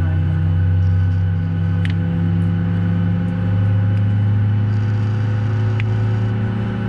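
Steady low drone of several unchanging hum tones inside a Boeing 737's cabin while the airliner sits at the gate with its systems running, before it moves.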